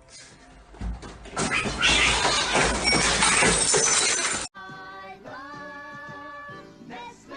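A loud, noisy crash like things shattering, lasting about three seconds and cutting off abruptly, then background music with held notes.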